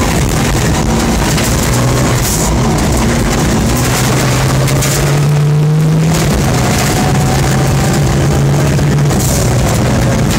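Rally Mitsubishi Lancer Evolution's turbocharged four-cylinder engine, heard from inside the stripped cabin, pulling hard along a gravel stage over steady tyre and gravel noise. The engine note climbs, drops with an upshift about six seconds in, then climbs again.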